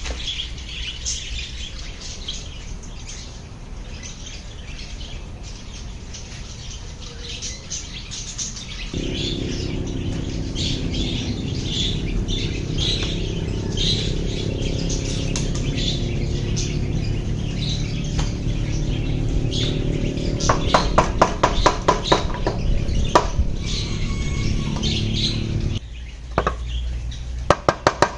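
Small birds chirping and tweeting. A low steady rumble comes in about a third of the way through and stops shortly before the end, with a quick run of clicks partway and a few sharp knocks near the end.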